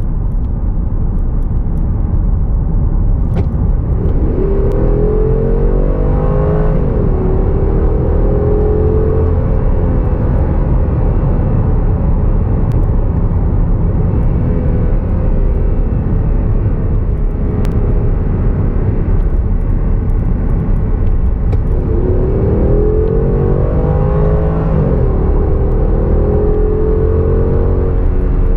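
Porsche Cayenne GTS's 4.8-litre V8 running under way over steady road noise. Twice the engine note rises for a couple of seconds and then drops suddenly, as with a gear change, before settling to a steady cruise.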